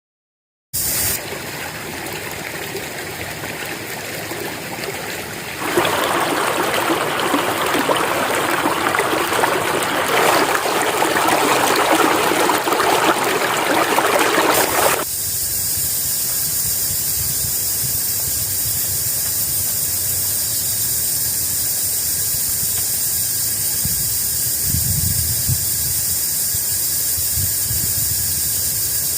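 Steady rushing noise of water, which gets louder for several seconds in the middle and then settles into a steadier, thinner hiss.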